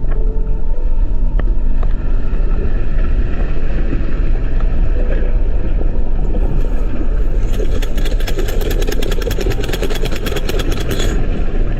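Loud, deep underwater rumbling from an earthquake, with a fast rattling joining in about two-thirds of the way through.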